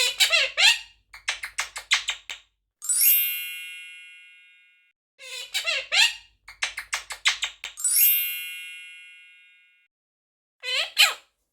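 Edited sound effects: a squeaky, gliding chirp and a quick run of clicks, followed by a bell-like ding that rings out for about two seconds. The sequence plays twice, and starts a third time near the end.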